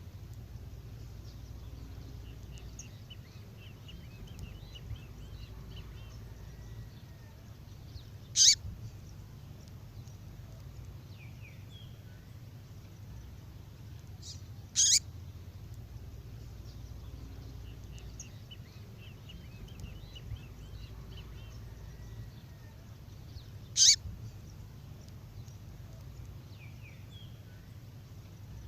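Female songbird call: a short, sharp downward-sweeping note repeated three times, several seconds apart, with faint high twittering between the calls.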